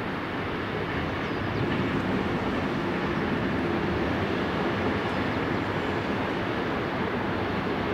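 Steady rumble of a distant passenger train running along the line, its coaches passing at speed.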